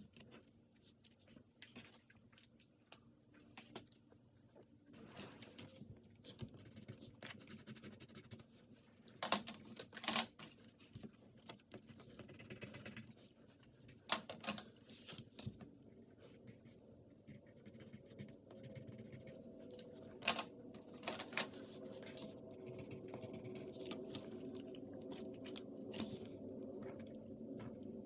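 Drawing on paper: scratchy pen strokes with scattered sharp clicks. A low steady hum comes up in the second half.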